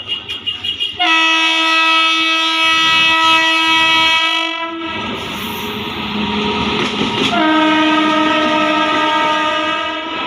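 Electric locomotive's air horn sounding two long steady blasts, the first about four seconds and the second about three, over the clatter of train wheels passing over rail joints.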